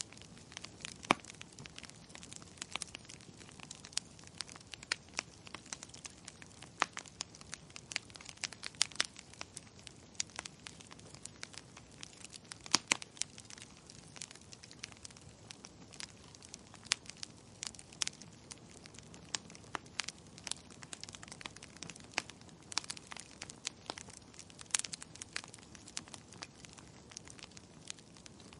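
Wood fire crackling in a fireplace: irregular sharp pops and snaps, several a second and varying in strength, over a faint steady hiss.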